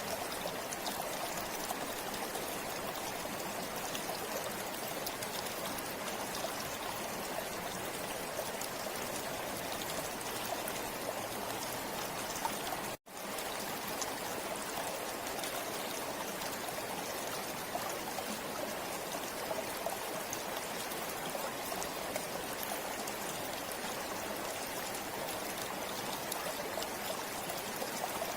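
A river flowing steadily over rocks: an even, constant rush of water. About halfway through it cuts out for a split second and resumes.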